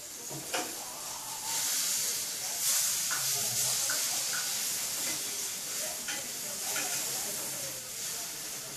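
Food frying in a pan: a steady sizzle that swells about a second and a half in, with a few faint clicks.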